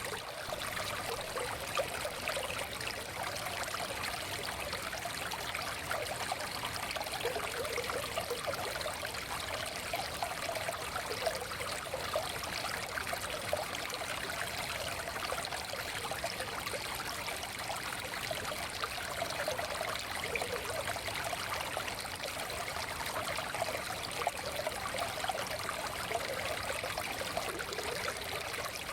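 Forest stream flowing steadily over stones, a continuous rush of water with many small trickles and splashes.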